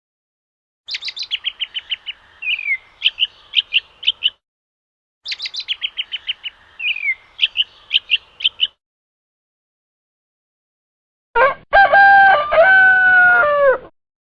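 A small songbird's song, a fast run of high notes followed by a downward slur and a few sharp chips, heard twice in identical form. After a pause comes a loud rooster crow that steps down in pitch and falls off at the end.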